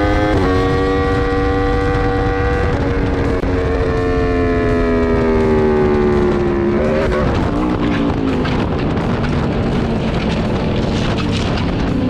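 Motorcycle engine running under a steady rush of wind and road noise. The engine note holds, then falls over a few seconds, and breaks up into rough noise about seven seconds in.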